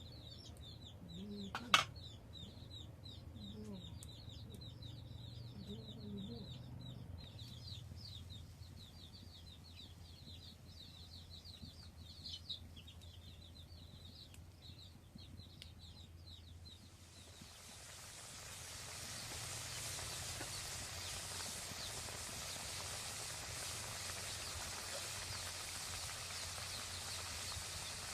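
Chickens clucking over rapid high-pitched chirping, with a sharp click near the start; after about two-thirds of the way through, a steady hiss rises and takes over.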